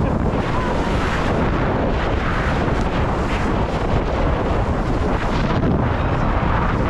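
Steady, heavy wind buffeting the microphone while riding a towed banana boat at speed, with the rush of sea water underneath.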